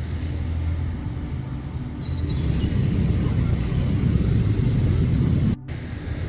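Steady low rumble, growing louder about two seconds in and broken by a sudden cut about five and a half seconds in.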